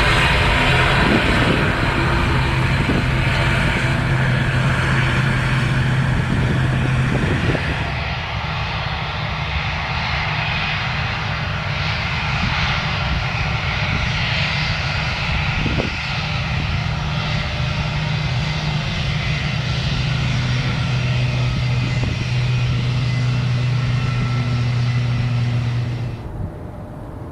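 Jet airliner engines running with a steady low hum and a wide rush of noise, fairly even in level, dropping off sharply near the end.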